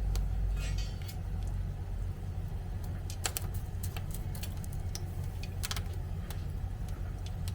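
A steady low hum with light, sharp metallic clicks and taps scattered through it, several close together about three seconds in, from metal tools being handled during tobi re-forging.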